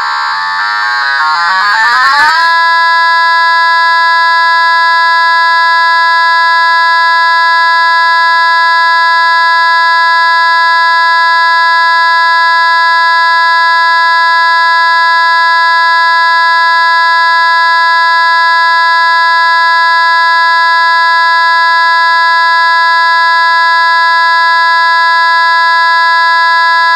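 A loud, buzzy electronic tone that sweeps upward in pitch over about the first two seconds, then holds one steady pitch without change.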